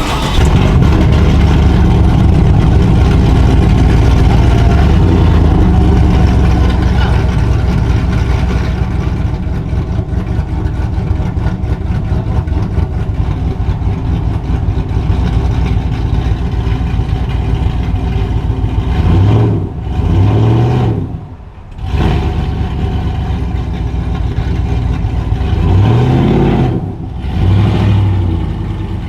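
Chevrolet C10 pickup's engine running loud and steady, then revving up and back down twice in the last ten seconds.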